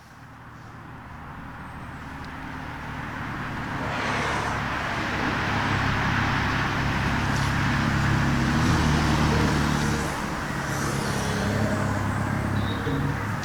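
A passing vehicle that grows louder over the first four seconds, then runs loud and steady with a low hum and a few sharp ticks.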